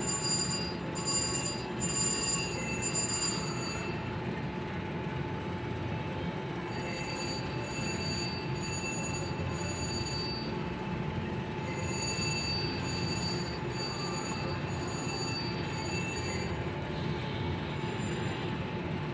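Slot machine playing its electronic chiming tones, pulsing about twice a second in runs of a few seconds, over the steady hum of a casino floor.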